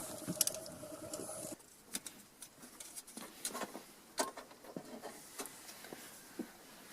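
Light scattered clicks and scratches of a tape measure being handled and held against the roof, with a faint steady hum that cuts off about a second and a half in.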